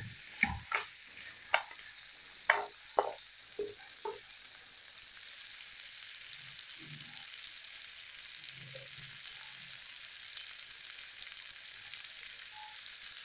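Spiced potato and pumpkin pieces sizzling in hot oil in a pan while being stir-fried. A spatula knocks and scrapes against the pan several times in the first few seconds, then a steady sizzle carries on.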